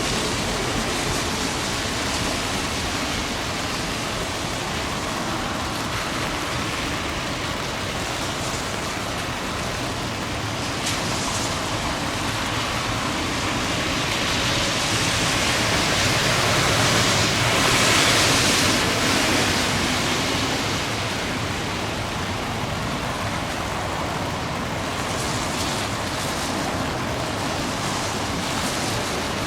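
Heavy rain falling, a steady hiss, with a louder rushing swell about two-thirds of the way through.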